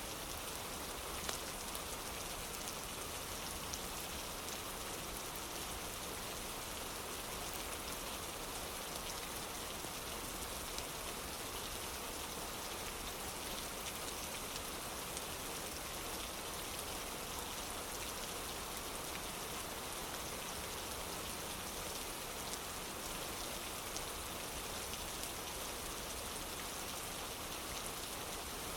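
Steady rain falling on a wooden porch, an even hiss with scattered small ticks of drops.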